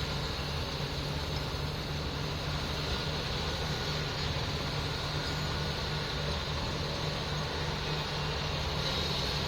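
Heavy vehicle's diesel engine running steadily at an even pitch, with no change in revs.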